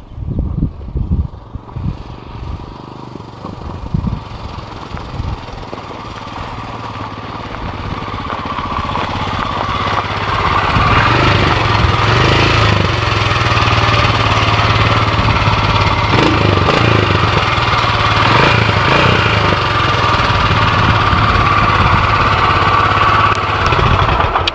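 Royal Enfield Himalayan's single-cylinder engine running on a ride, growing louder over the first ten seconds or so and then steady with a low rumble.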